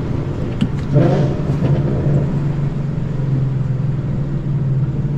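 2013 Ford Mustang GT's 5.0 Coyote V8, fitted with long-tube headers, an X-pipe and Roush mufflers, droning steadily at light throttle while cruising, heard from inside the cabin. Its note swells briefly about a second in.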